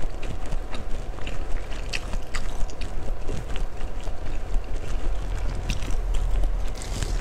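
Close-miked chewing of a mouthful of fried Aceh noodles (mie Aceh goreng): scattered soft, wet mouth clicks over a steady low rumble.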